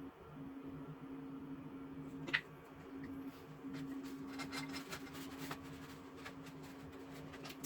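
Steady low hum with scattered light clicks and taps, as of small parts being handled; one sharper click about two seconds in.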